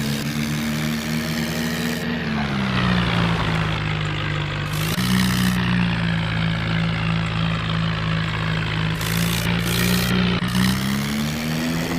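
Remote-control toy tractor running, with a steady engine-like hum whose pitch drops about two seconds in, rises again around five seconds and shifts once more near the end, with short bursts of hiss in between.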